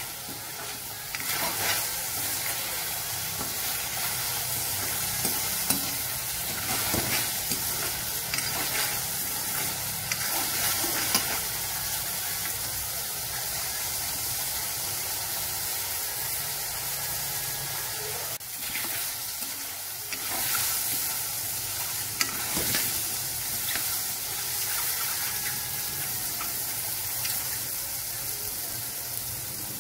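Sliced button mushrooms sizzling in a wok, with a spatula scraping and stirring through them every few seconds.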